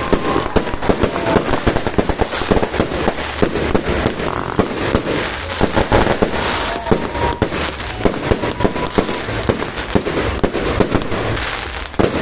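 Many fireworks going off at once in a continuous barrage of overlapping bangs and crackles, with a couple of faint whistles running through it.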